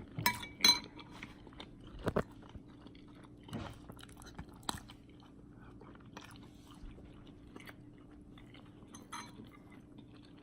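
A person chewing and eating a mouthful of homemade chicken katsu curry, with a few sharp clicks and clinks scattered through; the loudest come in the first second.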